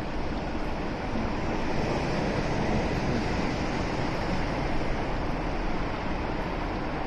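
Steady rush of wind and road noise on a microphone riding on a moving motorcycle, swelling a little about a second in and easing off near the six-second mark.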